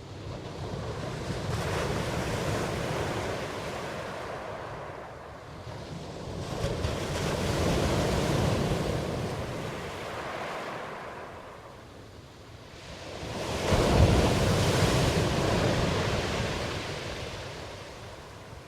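Ocean waves washing in: three surges of surf that swell and ebb, about six seconds apart. The third comes in most sharply and is the loudest.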